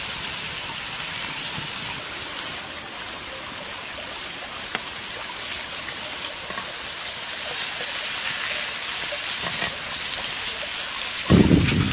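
White mushrooms and chili paste sizzling in oil on a hot stone slab over a wood fire: a steady hiss with fine crackling pops. Near the end comes one brief low thump, the loudest sound.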